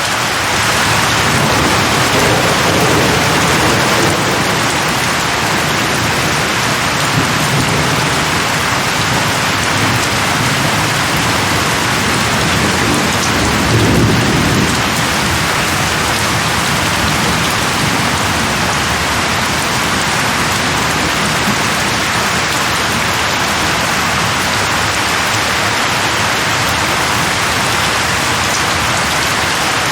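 Steady heavy rain falling, with low thunder rumbling twice: softly a second or two in, and louder about halfway through.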